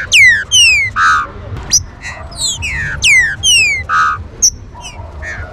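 Female green-winged saltator (trinca-ferro) calling: a quick, repeated run of sharp whistled notes, each sliding steeply down in pitch, with a short buzzy note about a second in and again about four seconds in.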